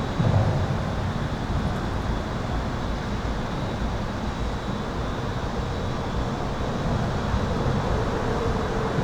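Continuous highway traffic heard from beneath an overpass: a steady rush of tyres and engines, with a heavy low rumble just after the start as a vehicle passes. A thin, steady high-pitched hum runs underneath.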